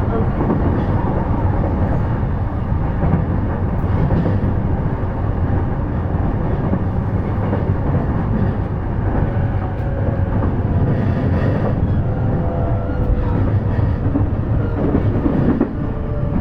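JR East E233-series electric train running along the track: a steady, dense rumble of wheels on rail, with a faint steady motor tone showing in the last few seconds.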